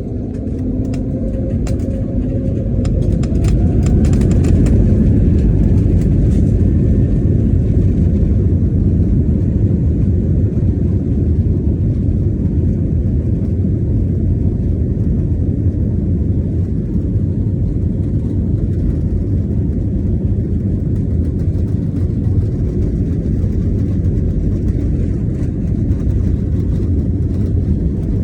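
Jet airliner heard from inside the cabin on the takeoff roll: a loud low rumble that builds over the first four seconds as the engines power up, then holds steady. There is some rattling about three to five seconds in.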